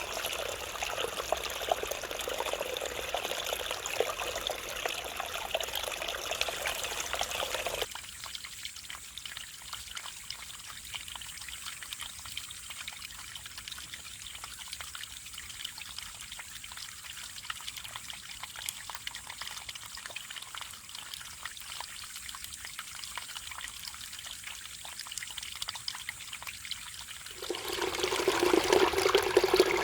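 Mountain stream water flowing and trickling over rocks. About eight seconds in it changes suddenly to a quieter, thinner rush, and near the end it turns suddenly louder and fuller.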